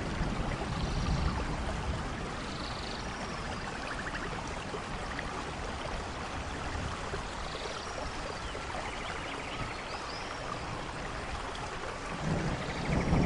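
Steady rain falling, with a low rumble of thunder dying away at the start and another swelling near the end. A few faint, short high chirps sound over the rain.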